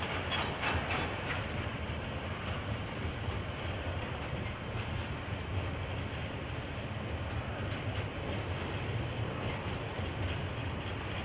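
KiwiRail train rolling past, a steady rumble with the wheels clicking over rail joints, most densely in the first second or so, picked up through a security camera's microphone.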